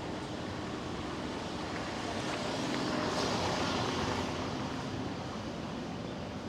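A motor vehicle passing by, its noise swelling to a peak about three seconds in and then fading away, over a steady rushing background.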